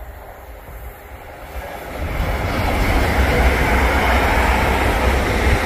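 Avanti West Coast express passenger train approaching and passing close at speed. Its rumble and the hiss of wheels on rail grow loud about two seconds in and then hold steady.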